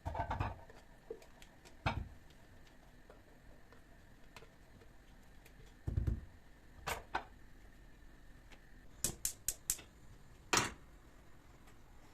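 Scattered knocks and clicks of household objects being handled and set down, with two duller thumps near the start and about six seconds in, and a quick run of four light clicks about nine seconds in.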